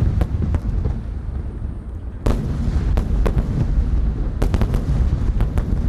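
Aerial fireworks shells bursting in quick succession: sharp bangs over a continuous low rumble of reports. A heavy burst comes about two seconds in, and a tight cluster of bangs follows a little after the middle.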